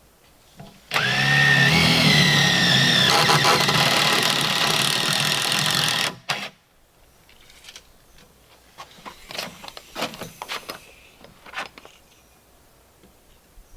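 An electric power tool starts abruptly, its pitch rising as the motor spins up, runs steadily for about five seconds and cuts off sharply. Scattered light knocks follow.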